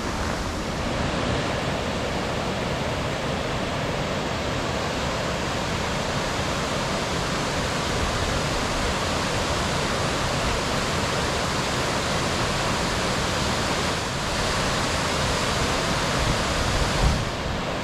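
Waterfall roaring steadily, a constant rush of falling water. A brief low thump near the end.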